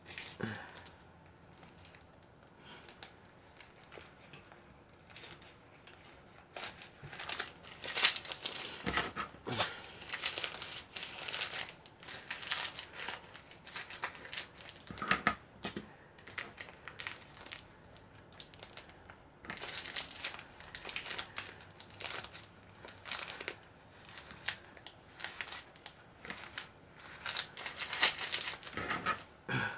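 Irregular crinkling and rustling, coming in short bursts, as stuffing is pushed by hand into a sewn cloth bird that has paper inside it for stiffness.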